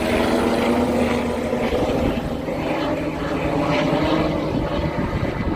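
Medical helicopter's rotors and turbine engine running, a steady hum of tones over rushing noise, with wind buffeting the microphone.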